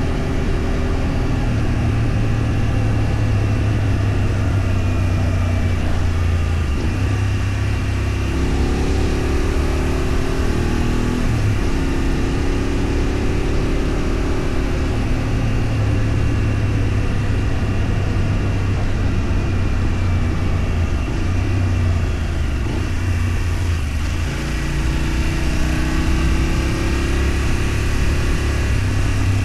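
Engine of a moving road vehicle running under way, its pitch stepping up and down several times as speed or gear changes, over steady road and wind noise.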